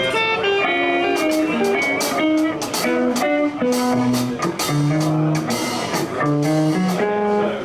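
Live blues band playing without vocals: guitar picking single-note lines over bass and drums, with regular cymbal and drum hits.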